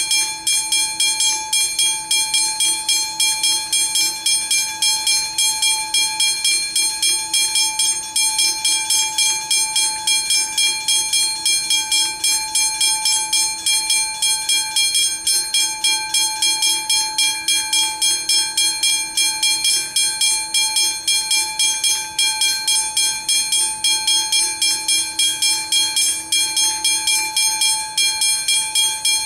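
Railway level crossing warning bell ringing continuously, a fast even run of strikes at about four a second, each leaving a bright metallic ring.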